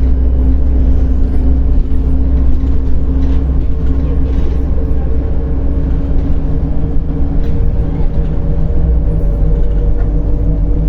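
Inside a MAZ-105.065 city bus under way: the diesel engine and drivetrain drone steadily over low road rumble, and the drone's pitch shifts about eight seconds in.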